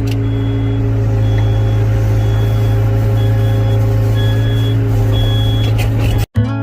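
Heavy diesel construction machine running steadily at a constant speed, with a high-pitched backup or travel alarm beeping about once a second over it. The sound cuts off suddenly near the end.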